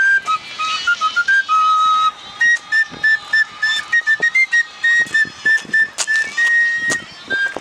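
A high, whistle-like wind instrument, fife or tin-whistle in character, playing a quick melody of short, separate notes, with one longer held note near the end. A couple of sharp taps sound just before the held note.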